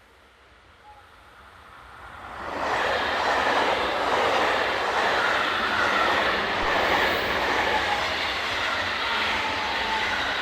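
A freight train passing close by: its noise rises quickly about two seconds in and then holds as a loud, steady rush of wheels on the rails.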